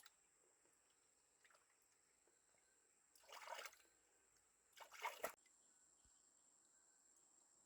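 Two brief bursts of water trickling or pouring, about three seconds in and again about five seconds in, over a faint steady high-pitched insect drone.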